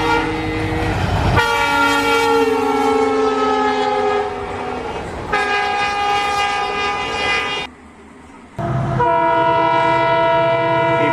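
Battery-powered toy train playing a recorded train-horn sound effect through its small speaker: several long horn blasts, the pitch sagging slightly, with a brief pause near the middle.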